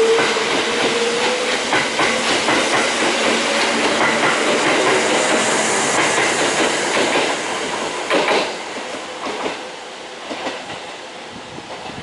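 Train running on the rails, its wheels clacking over rail joints, with a motor whine rising in pitch during the first second or two. It grows steadily quieter as the train moves away, with a burst of clacks about two-thirds of the way through.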